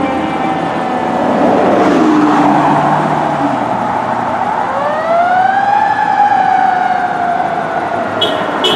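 Fire apparatus sirens wailing. The pitch slides slowly down, the traffic noise swells about two seconds in, and the wail winds back up about halfway through before slowly falling again. Two short high beeps come near the end.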